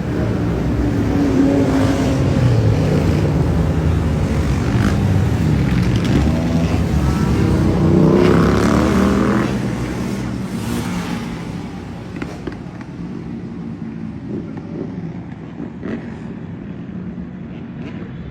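Motorcycle and quad bike engines revving as they pass, the engine pitch rising and falling. The noise drops away about ten seconds in, leaving quieter engine and traffic sound.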